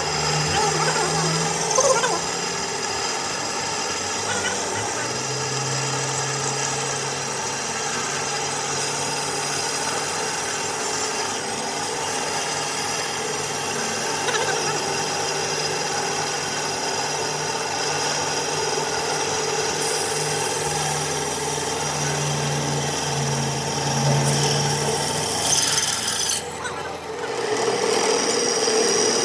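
A power tool working a metal gear with a steady rasping, over a low motor hum. It cuts out briefly near the end and then starts again.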